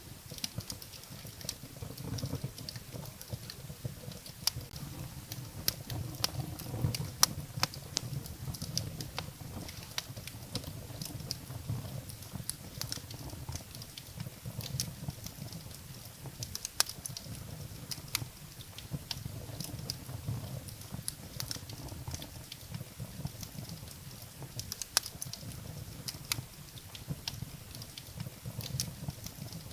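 Wood fire burning in a fireplace: a steady low flutter of flames with frequent sharp, irregular crackles and pops from the burning firewood.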